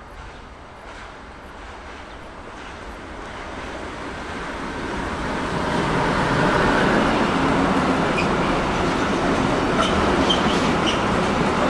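A train approaching on the line, growing steadily louder over about six seconds and then running past loud and close, with a few short high wheel squeals near the end.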